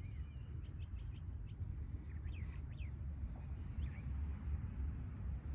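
Small birds chirping faintly in short calls over a steady low rumble, most likely wind on the microphone.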